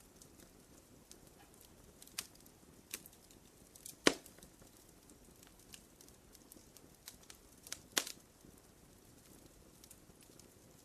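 Wood fire crackling: scattered small snaps over a faint low hiss, with two sharp, much louder pops about four seconds and eight seconds in.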